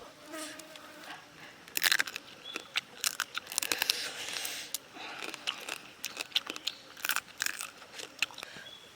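Crunching and chewing of someone eating, biting and cracking through crab shells in irregular crisp bursts, loudest about two seconds in and again around three to four seconds.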